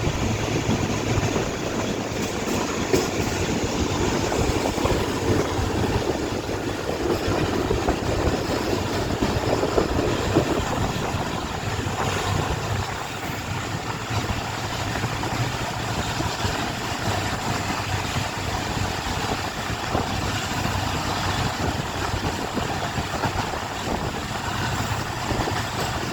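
Passenger train running at speed: a steady rumble with a low, even drone underneath, a little heavier in roughly the first ten seconds.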